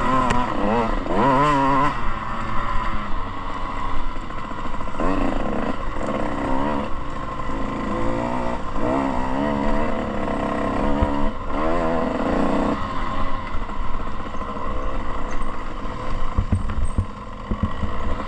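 Dirt bike engine revving up and falling back over and over as the rider works the throttle and shifts gears, then easing off about two-thirds of the way through.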